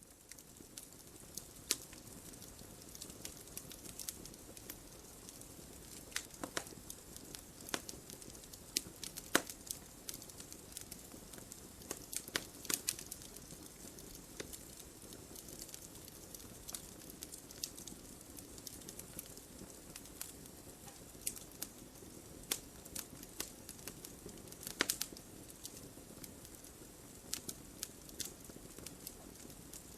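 Wood fire burning in a fireplace, crackling with frequent irregular sharp pops over a steady low hiss, a few pops louder than the rest.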